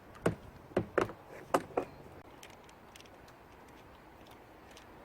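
A quick run of five sharp knocks or clunks in the first two seconds, two of them close together twice over.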